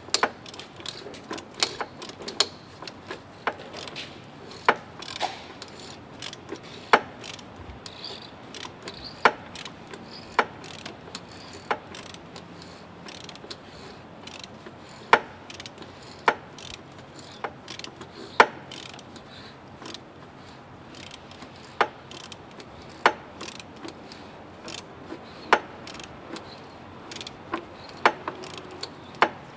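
Metal hand tools clicking and knocking while a filter is tightened with a wrench: sharp single clicks, one every second or two, at an uneven pace.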